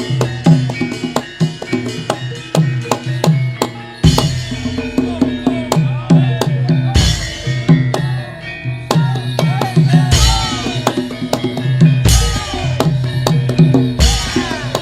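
Javanese gamelan accompaniment for Lengger dance: quick, steady drum strokes with ringing pitched metal tones. From about four seconds in, a deep low beat comes every two to three seconds.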